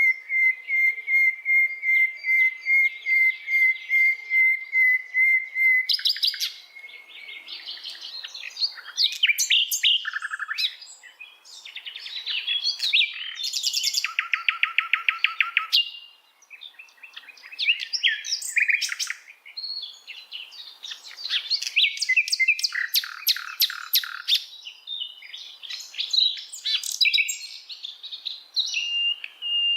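Small songbird calls: a high note repeated steadily about two or three times a second for about six seconds, then a jumble of varied quick chirps and fast trills.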